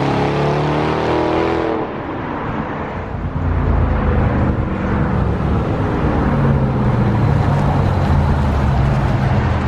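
Car exhaust with the mid muffler deleted, running loud with a deep drone; the sound eases off about two seconds in, then settles into a steady low drone.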